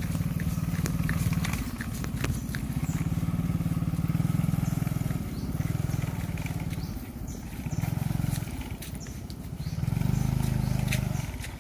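Motorcycle engine running, its sound swelling and dropping several times, quietest a little past the middle.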